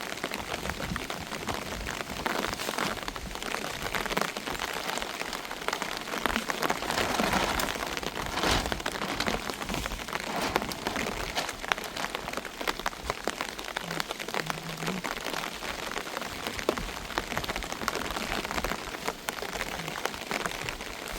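Heavy rain falling steadily, a dense patter of drops hitting surfaces, swelling slightly now and then.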